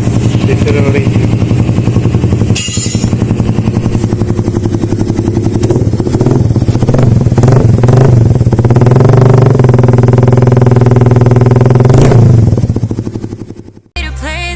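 Suzuki Satria FU 150's single-cylinder four-stroke engine running through a Kawahara aftermarket exhaust, being tested for its sound: it runs steadily, is revved in a few short blips around the middle, held at higher revs, then dies away near the end.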